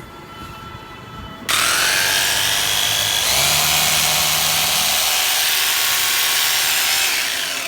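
Crown 800 W rotary hammer drill switched on about a second and a half in, its motor spinning up with a rising whine and running loud and steady for about five seconds, then switched off and winding down near the end.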